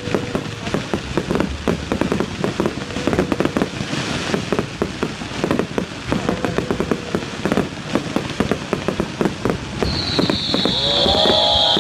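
Fireworks display: rapid, dense crackling and popping of bursting shells. Near the end a loud high whistle and voices come in.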